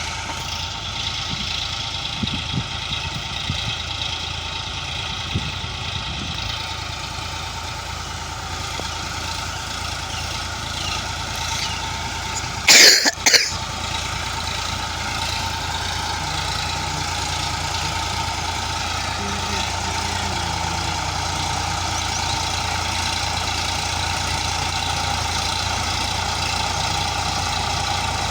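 Sonalika tractor's diesel engine running steadily at a low, even speed. A brief loud burst cuts in about halfway through.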